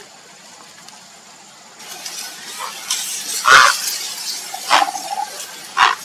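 Grey heron giving short, harsh croaking calls, three of them about a second apart in the second half, over a rustling, splashy background.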